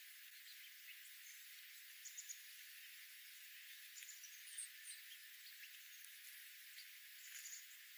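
Faint, scattered short high chirps of small birds, a few at a time, over a steady soft hiss.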